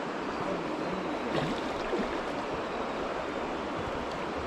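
A stream running over its bed, a steady rush of flowing water.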